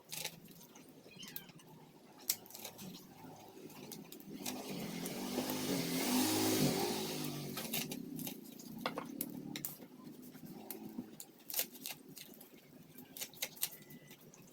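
A motor vehicle passing by, its engine growing louder to a peak about six seconds in and fading out by about nine seconds. A few short clicks sound before and after it.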